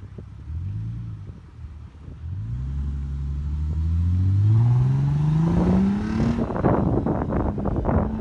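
Lexus IS 300 with its mufflers removed (muffler delete), exhaust giving a quick rev blip, then accelerating hard with a long rising engine pitch. The run ends in a rough, choppy rasp as the car goes by.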